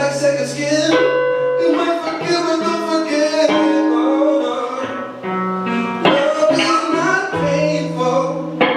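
Live acoustic guitar playing, with a voice singing over it in long held, gliding notes.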